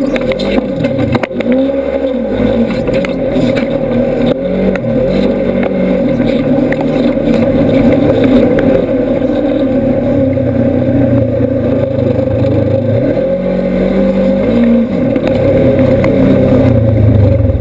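Polaris RZR side-by-side's engine running under load, its revs rising and falling again and again.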